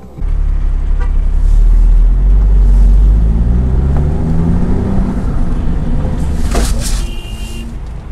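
A car driving with loud low road and engine rumble, the engine note rising as it accelerates. A sharp noise comes about six and a half seconds in, followed by a brief high steady tone.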